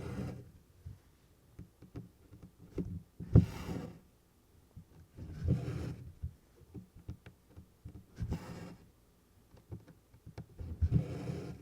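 DMC cotton floss drawn through 24-count Congress cloth with a soft rasp about every two to three seconds, between small clicks and taps of the needle passing through the fabric.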